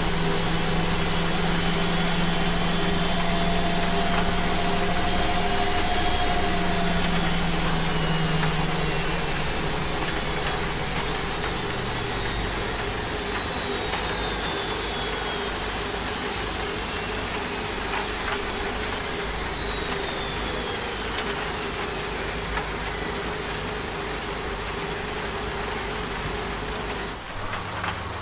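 Washing machine spinning down: a high motor whine falls slowly in pitch over about twenty seconds as the drum slows, and a low hum stops about nine seconds in, over a steady hiss of rain.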